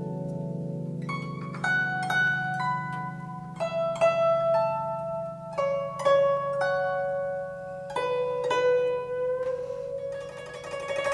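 Guzheng playing a slow melody in single plucked notes that ring and fade, with one note bent upward in pitch near the end, over a sustained low tone.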